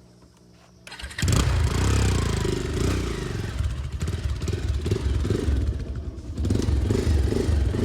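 Motorcycle engine starting about a second in, then running with the revs rising and falling.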